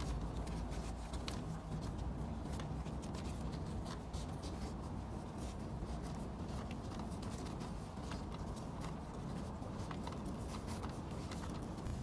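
Scattered small clicks and rustling of hands handling things, over a steady low hum.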